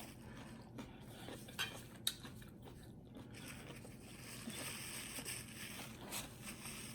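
Quiet chewing of food, with a few faint short clicks, the clearest about one and a half and two seconds in.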